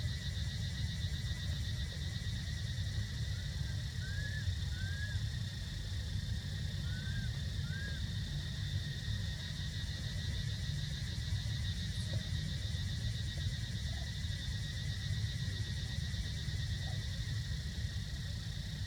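Outdoor ambience: a steady low rumble and a steady high drone, with several short rising-then-falling chirps scattered through it.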